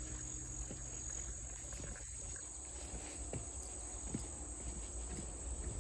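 Insect chorus in late summer: a steady, high-pitched trill that does not let up, with a few faint ticks scattered through it.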